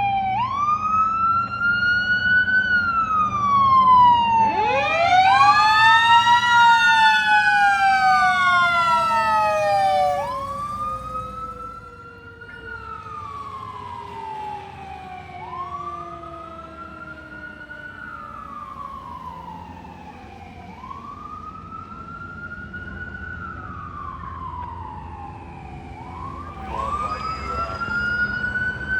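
Spartan Gladiator fire engine's siren wailing, rising and falling about every five seconds. A second, lower siren winds up about four seconds in and slowly winds down over the next ten seconds. The sirens grow fainter about ten seconds in and louder again near the end.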